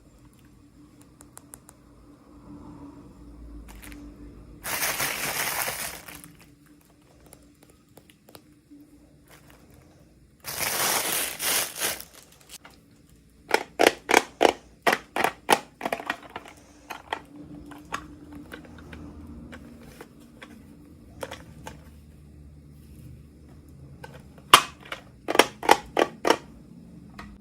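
Toy packaging handled during an unboxing: two short bursts of crinkling or tearing plastic, then quick runs of sharp clicks and taps.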